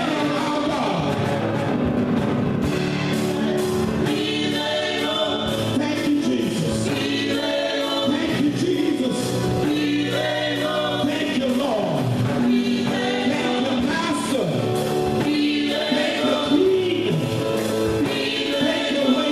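Gospel music with a choir singing over a steady band accompaniment.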